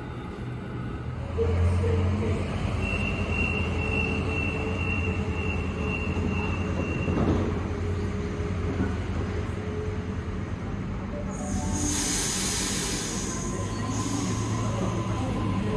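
Sydney Trains electric suburban train running through a station, its motors humming low and steady. A high, steady wheel squeal comes in a couple of seconds in and lasts about four seconds. A burst of hissing follows about eleven seconds in and lasts a couple of seconds.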